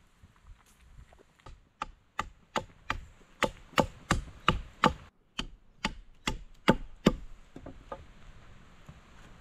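Hatchet chopping green wood, about fifteen quick strikes at roughly three a second, pointing the end of a fresh-cut sapling stake. The strokes start faint, grow louder after a short pause, and tail off with a few light taps near the end.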